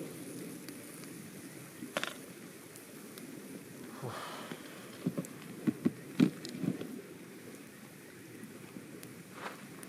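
Campfire ambience: a steady low rush, with a sharp crackle about two seconds in and a quick run of dull knocks around the middle.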